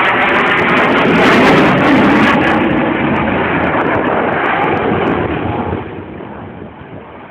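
Eurofighter Typhoon's twin EJ200 jet engines, loud as the fighter passes during its display, then fading away about six seconds in.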